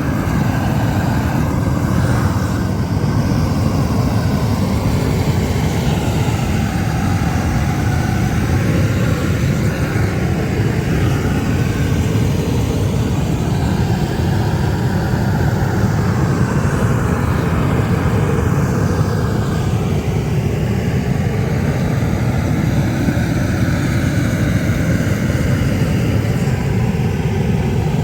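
Gas torch burning steadily, heating bitumen isogam membrane to torch it onto the roof.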